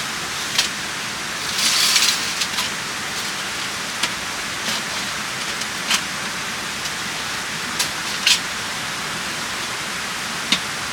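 Steady rain hissing, with single drops tapping sharply every second or two and a brief louder patter about two seconds in.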